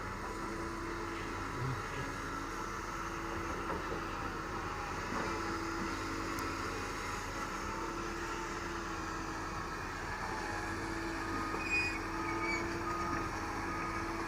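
Doosan DX225LCA excavator running steadily while working, a continuous machine hum with a faint held tone that comes and goes.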